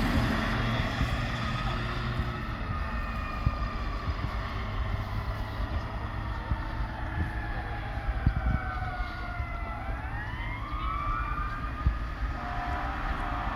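Fire engine's siren wailing, its pitch sliding down and up, over a steady low rumble.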